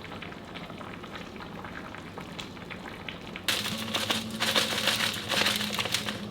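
Food sizzling and crackling as it fries in a pot, the sizzle jumping suddenly louder about halfway through.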